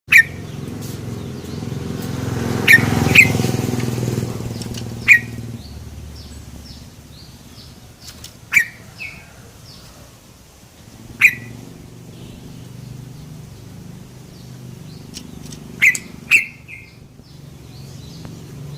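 Yellow-vented bulbul giving short, sharp "cuk" call notes, singly or in quick pairs every few seconds, with fainter high chirps between them. A low engine rumble swells and fades in the first few seconds, and a low hum comes back near the end.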